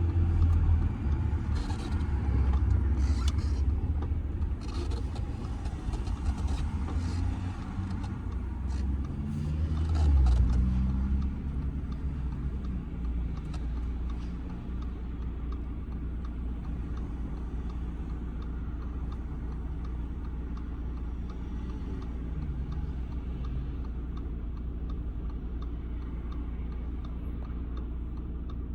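Audi A6 C6 2.0 TDI diesel car heard from inside the cabin in city driving, with engine and road rumble and a few knocks for the first ten seconds or so. The engine note rises briefly around ten seconds in, then everything settles to a quieter steady low engine hum. A regular light ticking comes in near the end.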